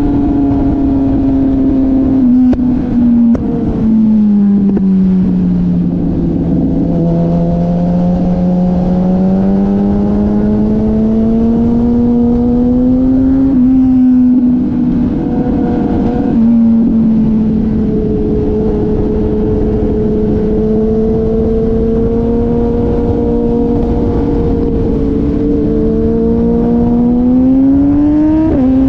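Motorcycle engine under way at speed, its pitch sliding down and back up with the throttle, with a few sudden steps in pitch like gear changes, over a steady low rush of wind.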